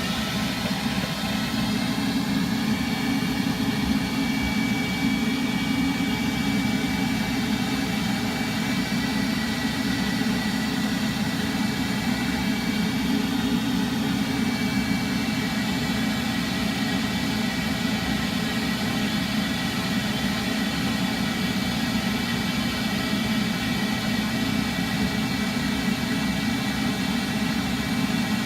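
A motor-driven machine running with a steady low drone and a few fixed whining tones above it.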